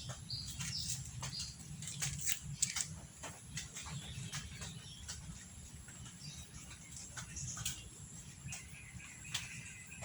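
Small birds chirping: many quick, short, high chirps, more frequent in the first half, over a steady low hum.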